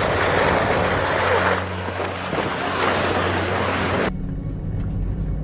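Strong wind rushing over the microphone, on top of a car's steady engine hum. About four seconds in the wind noise cuts off suddenly, leaving the low rumble and hum of the car.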